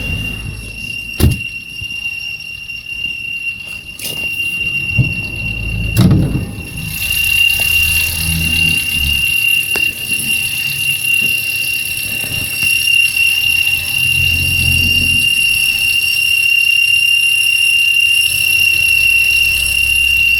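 Opel Corsa C engine's auxiliary drive belt squealing: a steady high-pitched whistle over the running engine, turning louder and shriller about seven seconds in. A few sharp clicks sound in the first six seconds.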